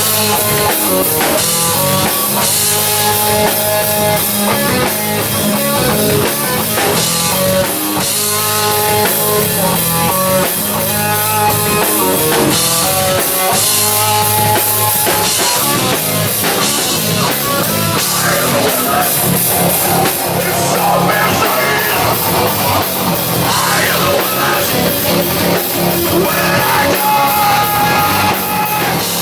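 Live rock band playing, with electric guitar lines over a driving drum kit and bass.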